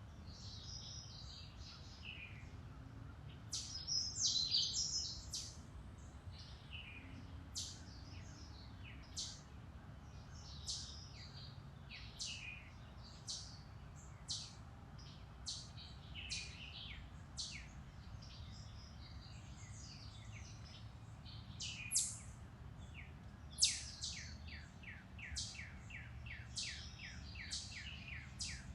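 Several woodland birds singing and calling, short chirps and whistled phrases overlapping, with a quick run of repeated falling notes in the last few seconds. A low steady rumble lies underneath.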